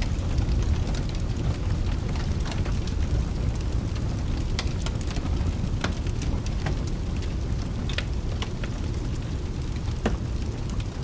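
Steady rain over a continuous low rumble of thunder, with the sharp crackles and pops of a wood fire in a fireplace scattered through, a few at a time.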